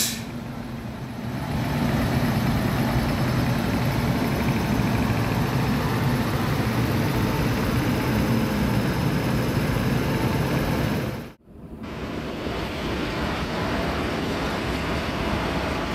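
Electric locomotives running past on the track: a steady rumble of wheels on rail and running gear. The sound breaks off about 11 seconds in and picks up again, a little quieter, with another passing locomotive.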